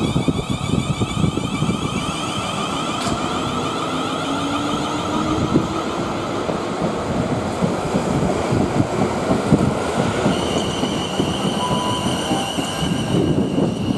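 Electric multiple-unit train running at the platform: steady rumble of wheels on rail with the whine of its traction equipment in several steady tones, one rising slowly about four seconds in and the pitch set changing around ten seconds in.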